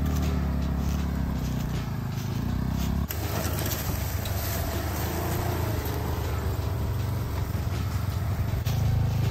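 Off-road vehicle engines running steadily under way. The engine note changes abruptly about three seconds in and again near the end.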